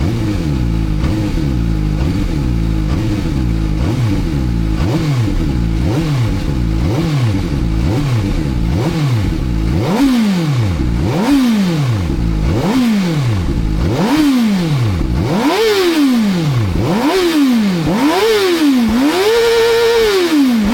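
The 2026 CFMOTO 500SR's warm inline-four engine being revved while the bike is stationary. It starts with a run of small, quick throttle blips. About ten seconds in, sharper revs rise and fall roughly every second and a bit, climbing higher each time. Near the end the revs are held flat at the top for about a second at a time.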